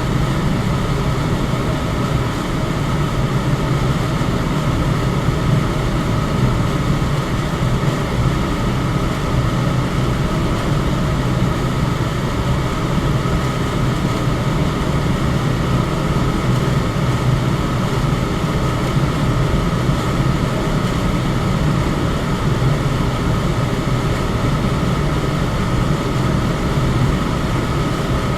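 Electric fan running at a steady speed: an even rush of moving air over a low hum, with a faint steady higher tone.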